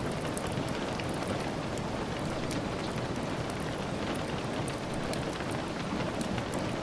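Steady rain, a dense even patter, with the soft crackle of a wood fire heard as scattered sharp ticks throughout.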